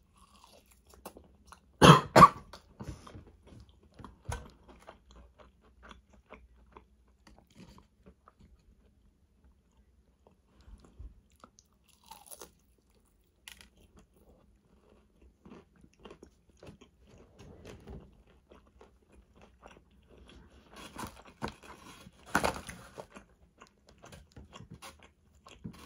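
Close-miked mukbang eating: biting into and chewing crunchy fried fast food. There is a loud crunching bite about two seconds in and another near the end, with quieter chewing and small mouth clicks between.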